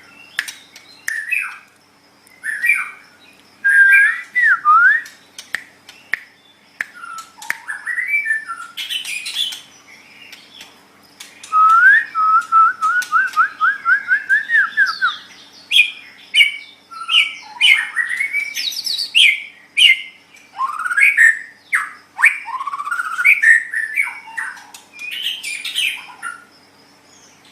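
White-rumped shama (murai batu) singing a varied song of loud whistled phrases, slurred glides and short chatters, with a fast run of repeated rising notes about halfway through.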